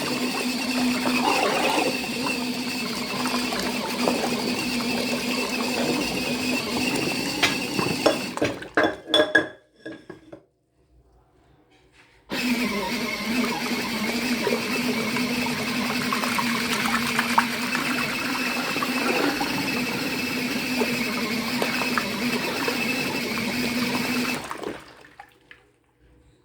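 Mini foldable washing machine running its wash, a steady motor hum with water and cloths sloshing in the tub. It winds down about nine seconds in with a few knocks, pauses for a couple of seconds, starts again abruptly, and winds down again near the end.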